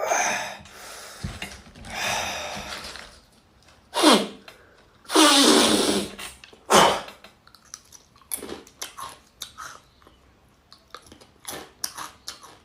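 A man's exaggerated mouth and breath noises: several loud hissing gasps and exhalations, some falling in pitch, followed by small smacking and clicking sounds.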